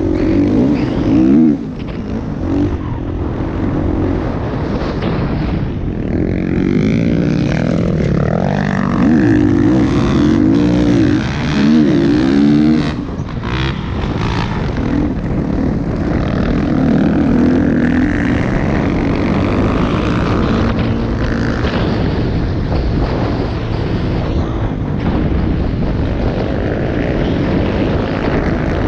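Motocross dirt bike engines running at high revs, the pitch climbing and dropping again and again as the throttle opens and closes.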